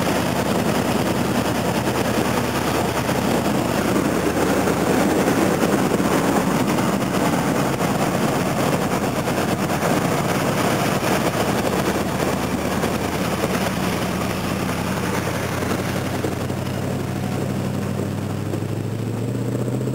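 Car driving through deep floodwater: a steady rush of water spraying and churning around the car over the engine. Over the last few seconds the engine note comes through more clearly and rises slightly in pitch.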